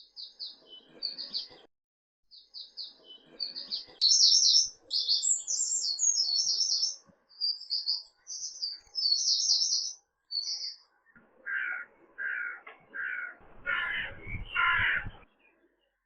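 Small birds chirping in quick high twittering phrases, then a larger bird giving five or six harsh calls in a row near the end.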